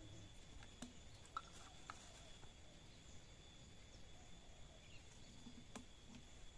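Near silence: faint background with a few soft clicks and no chainsaw running.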